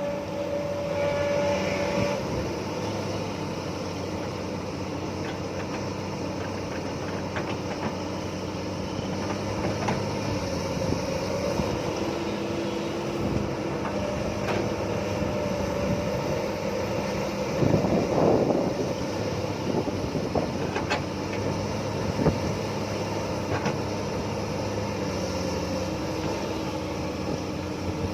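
Hydraulic excavator's diesel engine running steadily, with pitched hydraulic whines that come and go and change pitch. There are a few short knocks, and a louder rush about two-thirds of the way through.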